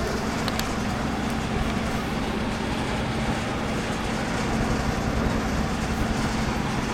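Large diesel engine of heavy site machinery running steadily at a constant speed, with a low steady hum under it.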